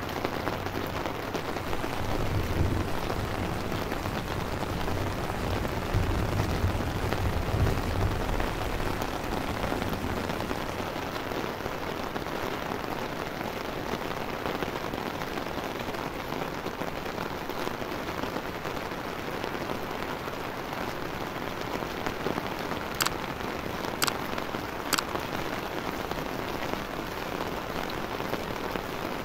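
Steady rain falling on the ground and nearby surfaces. A low rumble lasts several seconds, starting about two seconds in, and three sharp ticks about a second apart come near the end.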